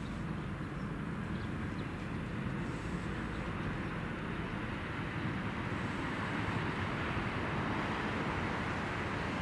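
Steady rumble of a passing train, slowly growing a little louder toward the end.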